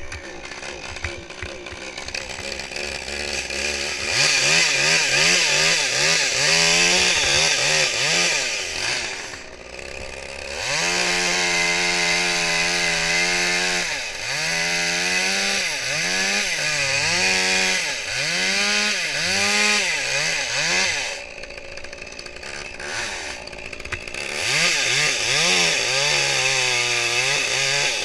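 Two-stroke chainsaw running at full throttle and cutting wood, its engine note dipping and recovering again and again as the chain loads up in the cut. It eases off briefly twice, then comes back on.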